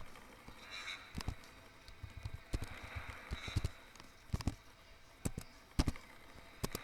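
A series of sharp knocks and clicks at irregular intervals, about a dozen in all, with the loudest near the end.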